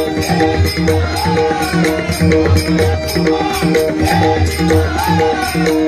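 Marathi bhajan accompaniment between sung lines: a drum, held harmonium-like tones and small hand cymbals play in a steady rhythm, with faint voices gliding above.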